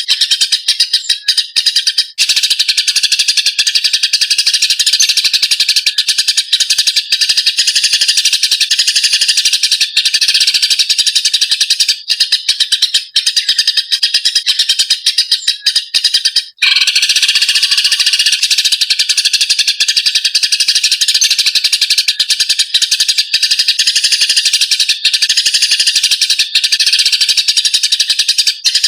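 Eurasian tree sparrows in a fight: a loud, dense, unbroken stream of rapid harsh chirps and chatter. The chirping breaks off for an instant about two-thirds of the way through.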